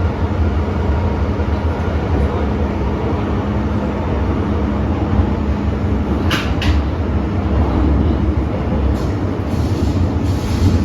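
MTR Tsuen Wan Line M-train (Metro Cammell electric multiple unit) running along the track, a steady low rumble of wheels and running gear, with two brief sharp sounds in quick succession a little past six seconds in.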